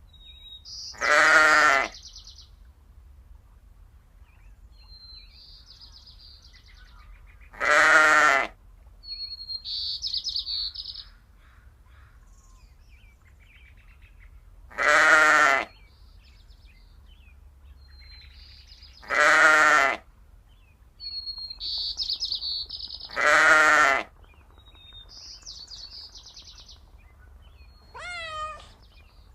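A goat bleating five times, each loud call lasting under a second with a wavering tone, while a small bird chirps in short high phrases between the bleats. Near the end comes a brief call that rises and falls in pitch.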